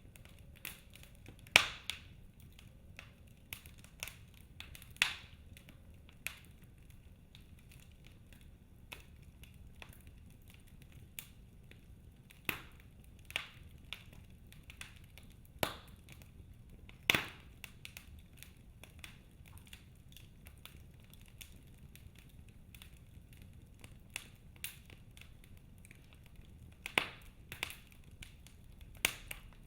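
Wood fire crackling in a fireplace, with irregular sharp pops over a faint low rumble.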